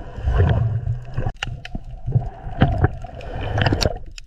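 Water sloshing and gurgling with a low rumble, broken by scattered sharp clicks and knocks.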